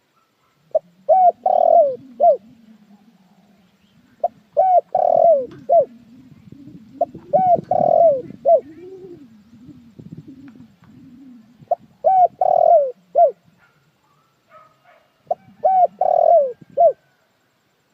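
Puter dekukur dove cooing: five phrases, each a quick run of three or four coo notes, spaced a few seconds apart. A faint low hum runs beneath, with faint chirps of other birds.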